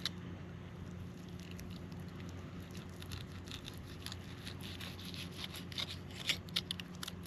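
Hands handling a bait fish and fishing tackle while baiting a hook: a run of small clicks and rustles, busiest in the second half, over a steady low hum.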